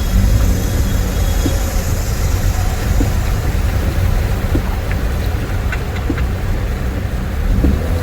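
Steady low rumble of road traffic moving along a waterlogged street.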